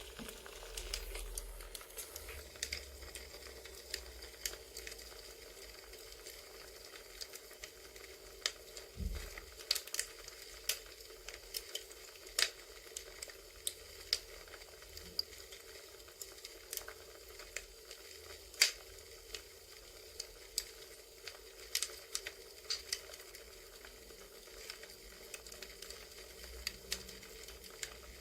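Campfire ambience of a wood fire crackling: irregular sharp pops over a steady soft hiss.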